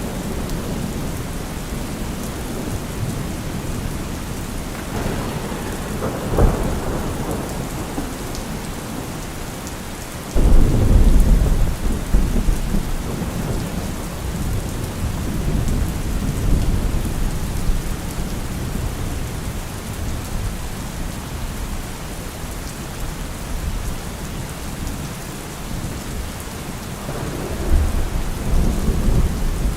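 Heavy rain falling steadily, with deep rumbles: one swelling about five seconds in, a sudden loud one about ten seconds in that fades over several seconds, and another near the end.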